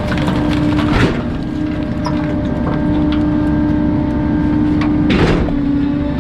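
Garbage truck compactor crushing bulky waste, its hydraulics humming at a steady pitch under continuous crunching. Sharp cracks of breaking material come about a second in and again about five seconds in.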